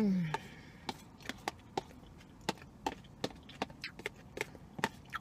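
Close-up chewing of a mouthful of spinach, chicken and mango salad: sharp wet mouth clicks and smacks, irregular, about two a second. A brief falling 'mmm' hum at the start.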